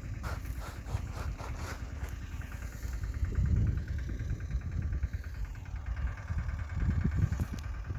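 Yuvraj 215 mini tractor's single-cylinder diesel engine running, swelling louder twice, with a quick run of clattering ticks over the first couple of seconds.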